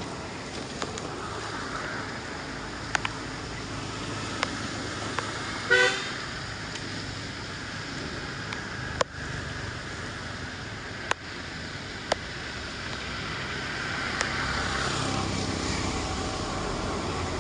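A short vehicle horn beep about six seconds in, over a steady rushing background noise. Several sharp clicks are scattered through it.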